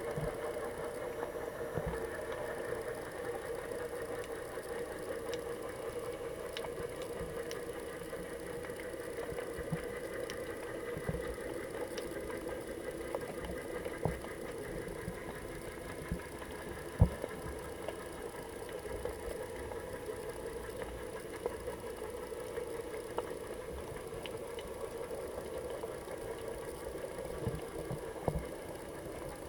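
Muffled underwater sound picked up through a GoPro's waterproof housing: a steady hum with scattered soft low knocks and faint clicks, one sharper knock a little past halfway.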